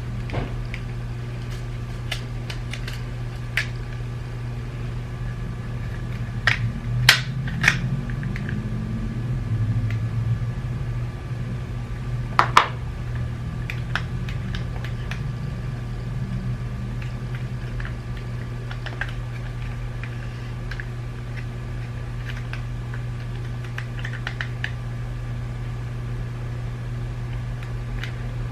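Scattered small clicks and taps of plastic parts being handled and pried apart, a few louder ones in quick succession about seven seconds in and again about twelve seconds in, over a steady low hum.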